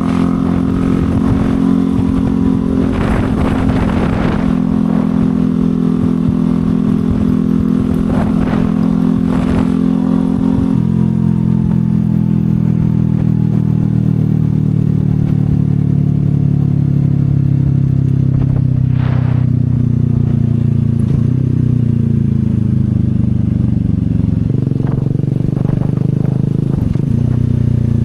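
CFMoto 250SR single-cylinder motorcycle engine running under way. About eleven seconds in the engine note drops abruptly, then falls slowly in pitch as the bike slows.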